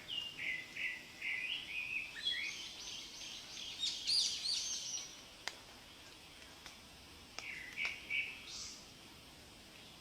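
Thrush chicks begging at the nest: a chorus of high, rapid calls for about five seconds, then quiet with a few sharp clicks, then a shorter burst of calls about eight seconds in.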